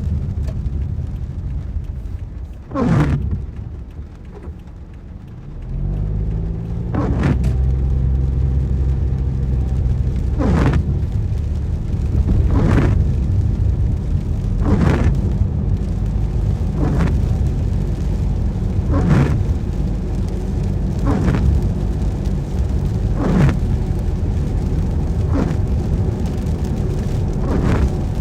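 Windscreen wipers sweeping across a rain-wet windscreen about every two seconds, each pass a swish that slides down in pitch, over steady engine and tyre noise inside the car's cabin. A few seconds in, the car goes briefly quieter, then the engine note rises as it pulls away.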